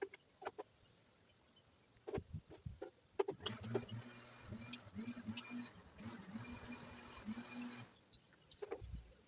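Scattered metallic clicks and knocks of tools and parts being handled during motorcycle disassembly, with a low steady hum from about three seconds in until about eight seconds in.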